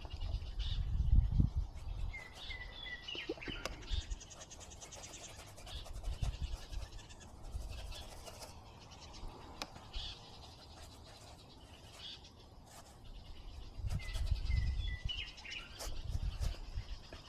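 A songbird singing a short phrase of quick, stepped notes, twice, about twelve seconds apart, over low rumbling gusts on the microphone and scattered small clicks.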